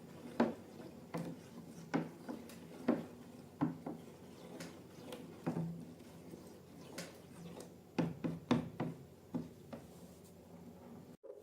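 Slime being worked by hand or with a utensil: a run of short sticky clicks and pops, about one or two a second, over a faint low hum. It cuts off abruptly near the end.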